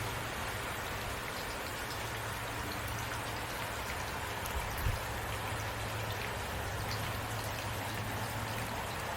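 Heavy rain falling steadily, individual drops ticking through the constant hiss, over a faint low rumble. A single soft knock about halfway through.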